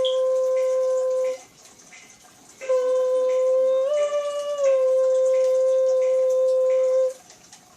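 A flute playing long held notes: a note ends a little over a second in, and after a short rest it comes back, steps briefly up a tone, returns and is held until it stops about seven seconds in.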